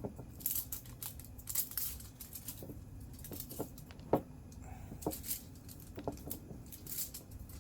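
Irregular light clicks, taps and brief rustles of small parts and wires being handled at a workbench, over a faint steady low hum.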